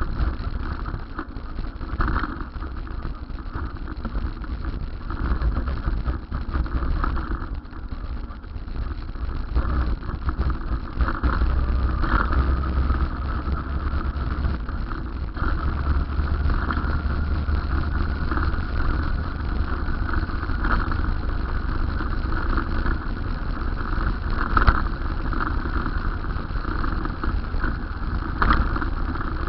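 Road noise from riding, with a strong, uneven low rumble of wind on the microphone and a few short knocks.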